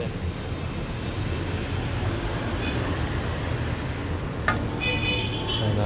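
Steady low vehicle-like rumble. About four and a half seconds in there is a sharp click, followed at once by a brief high electronic chime.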